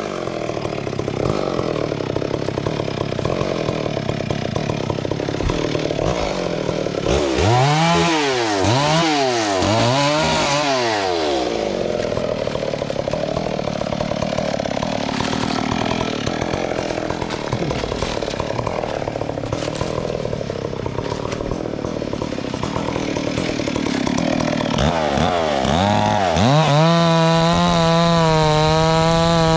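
Two-stroke chainsaw cutting wood: the engine pulls down under load in the cut, is revved up and down three times about a quarter of the way in, cuts on, then revs up to a steady high pitch near the end.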